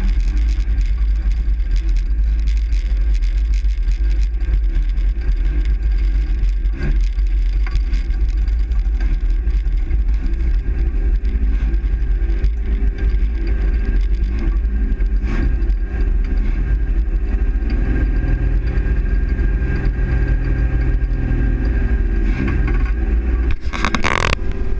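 Truck engine and road noise heard from inside the cab while driving: a steady, heavy low rumble with an even engine drone. A short, brighter noise comes just before the end.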